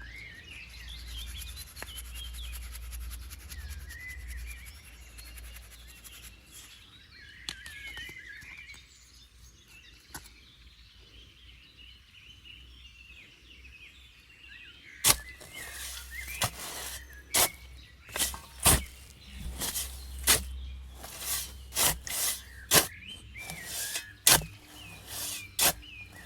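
Birds chirping over a low outdoor rumble. From about halfway through, a run of irregular sharp knocks or clicks, one or two a second, louder than the birdsong.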